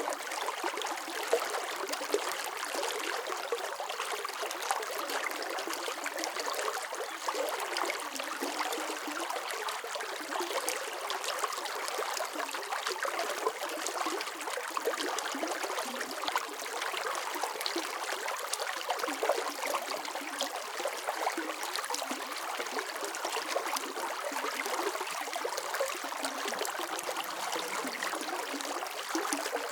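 Running water flowing steadily, like a small stream, with a constant splashing and trickling texture and no low rumble.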